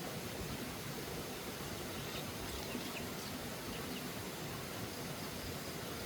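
Steady outdoor background noise, with a few faint, short, high chirps about two to four seconds in.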